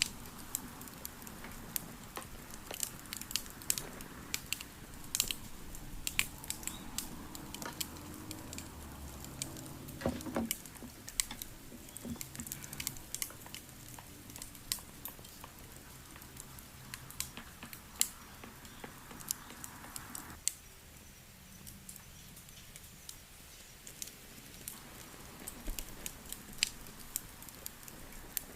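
Wood fire crackling, with frequent irregular sharp pops and snaps over a faint steady background.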